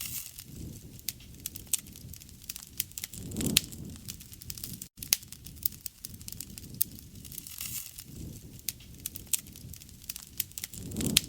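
Campfire crackling, with frequent sharp pops and snaps over a low rumble that swells a few times.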